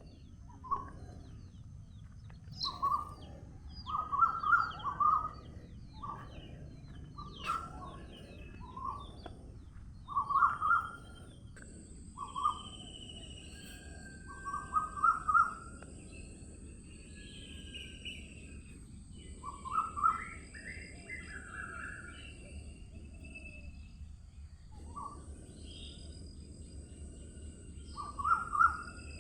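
Birds calling in short clusters of chirping notes every few seconds over a steady outdoor background. A thin, steady high tone joins about twelve seconds in.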